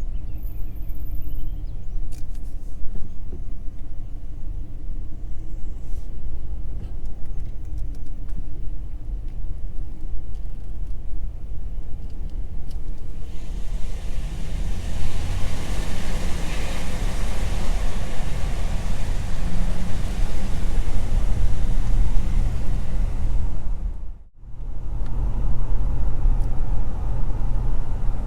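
Ram 1500 pickup driving on a winding highway: a steady low rumble of engine and road noise, with a louder hissing rush for about ten seconds in the middle. The sound cuts out for a moment near the end, then the rumble resumes.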